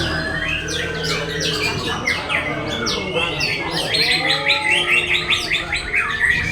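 Several songbirds singing at once in a dense overlapping chorus of chirps, whistles and gliding notes, with a fast run of rapidly repeated notes in the second half.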